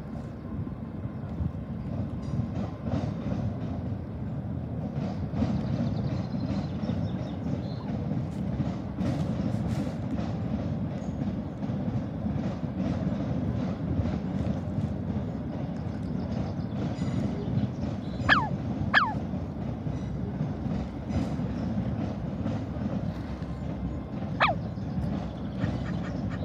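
A train rumbling past on the nearby railway line, a steady low running noise with faint clicks on top. Three short falling chirps cut through it, twice close together about two-thirds of the way in and once more near the end.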